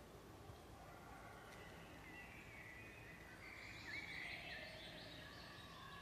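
Faint birdsong: a cluster of short chirps and whistles in the middle, over a low, steady background noise.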